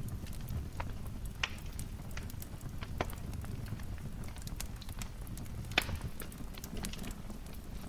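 Wood fire crackling in a fireplace: a steady low rumble of flames with scattered sharp pops, the loudest about three quarters of the way through.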